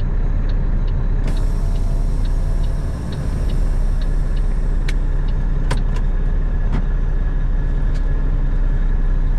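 Steady engine and road rumble inside a moving truck's cab, with a faint regular tick about twice a second and a few sharp clicks in the second half.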